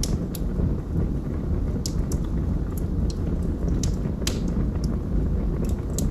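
Log fire crackling: scattered sharp pops and snaps, about ten at irregular gaps, over a steady low rumble of burning flames.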